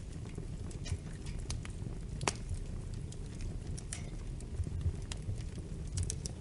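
Wood fire in a fireplace crackling: a steady low rumble of the burning with irregular sharp pops and snaps, the loudest about two seconds in.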